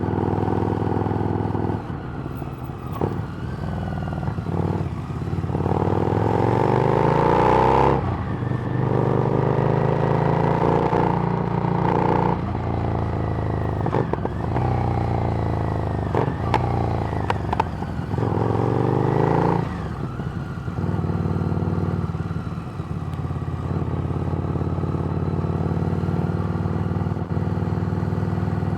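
Harley-Davidson Street Rod's 750 cc V-twin through a Screamin' Eagle exhaust, under way: the revs climb and drop back several times in the first twenty seconds as it shifts up through the gears, then hold steady at a cruise.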